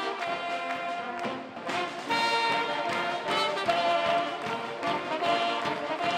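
Pep band brass playing an upbeat instrumental passage, trumpets and trombones together, with a short dip in loudness about a second and a half in.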